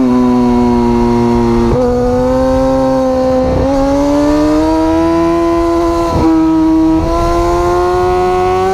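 Superbike engine pulling hard at high revs. Its pitch climbs steadily and is cut by quick gear changes about four times, roughly two seconds in, halfway, a little after six seconds and at seven seconds.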